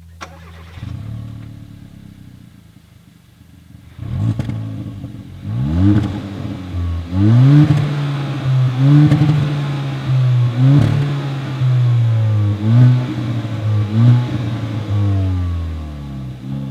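Kia Cerato GT's 1.6-litre turbo four-cylinder idling, then launching hard about four seconds in and accelerating flat out. The revs climb and drop back with each quick dual-clutch upshift, and the engine eases off near the end.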